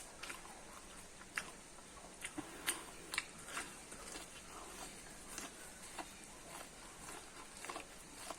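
Person chewing and biting corn close to the microphone: irregular small clicks and crunches from the mouth, a few louder ones in the middle.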